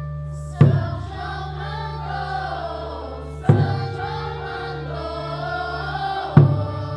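A group of voices singing together, with a drum struck hard three times about three seconds apart over a steady low hum.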